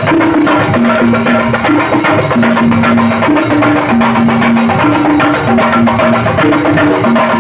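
Dhol drumming in a fast, steady rhythm of dense strokes. Underneath runs a repeating low figure of two alternating held notes.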